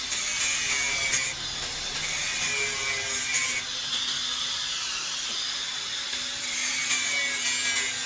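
Steady rasping, cutting noise from a tool working a part, over a faint steady low hum.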